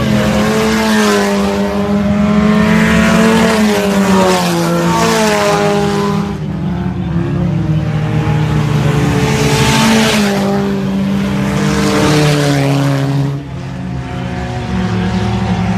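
A field of IMCA Sport Compact race cars running at racing speed, several engines heard at once, their pitch rising and falling as the cars pass in turn. The loudest pass-bys come every few seconds, and the sound drops somewhat near the end.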